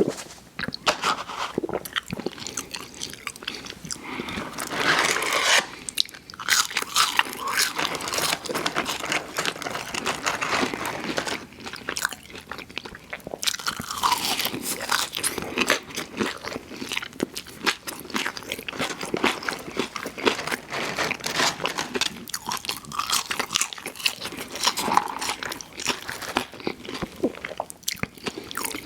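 Close-miked eating of fast food: repeated biting and chewing, with dense crisp crackles and short pauses between mouthfuls.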